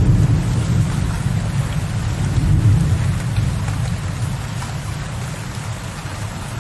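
Low, rolling thunder rumbling in the distance and slowly fading away, over steady rain pattering on a window ledge.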